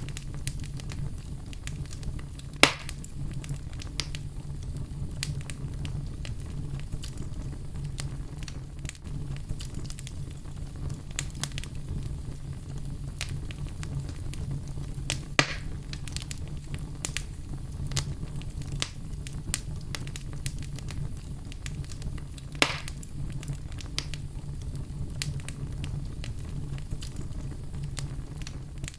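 Wood fire burning in a fireplace: a steady low rumble of flames with frequent small crackles and three louder pops, about 3, 15 and 23 seconds in.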